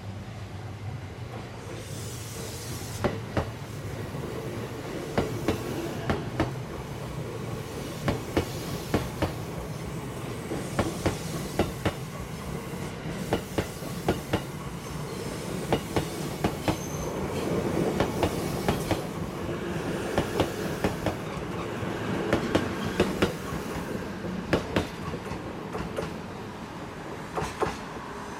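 JR East E353 series electric train passing at close range, its wheels clicking over the rail joints again and again, often in pairs, over a steady running rumble.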